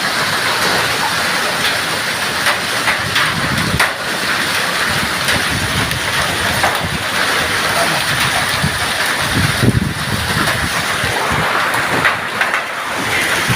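Heavy rain pouring down, with many sharp little clicks and clatters of hailstones striking hard surfaces.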